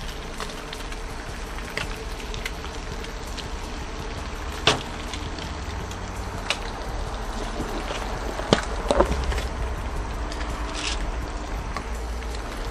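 Eggs and beef bacon sizzling and crackling in rendered bacon fat on a Blackstone flat-top griddle, over a steady low rumble. A few sharper clicks stand out about five and nine seconds in.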